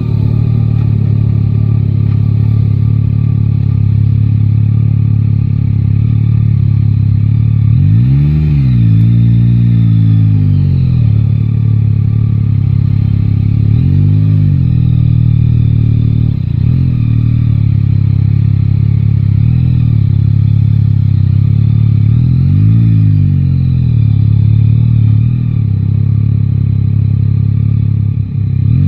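Three-cylinder motorcycle engine riding through city traffic, its note rising and falling as the rider opens and closes the throttle, with about five clear surges in pitch.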